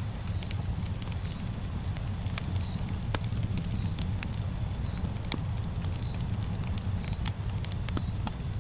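Campfire burning: a steady low rumble with scattered sharp crackles and pops from the burning wood. A faint short high chirp repeats about once a second.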